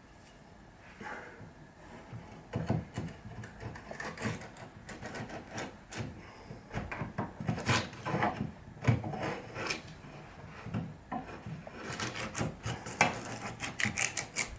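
A hand tool scraping and rubbing across wood in short, irregular strokes, with light knocks of wood on the bench.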